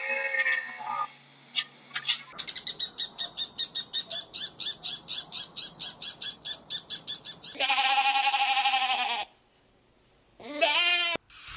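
Animal calls: a fast run of high chirps, about five a second for several seconds, then a longer pitched call and a short call near the end.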